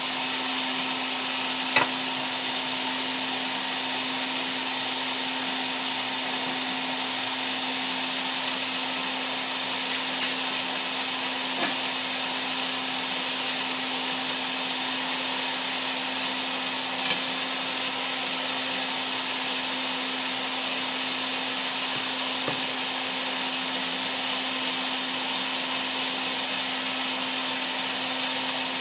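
Glass-bending burner and its air supply running with a steady hiss and a steady hum underneath, with a few faint clicks.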